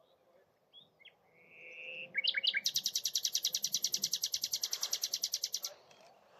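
Common nightingale singing: a few soft whistled notes, then a run of sharp notes and a fast, even rattling trill of about a dozen notes a second that lasts about three seconds.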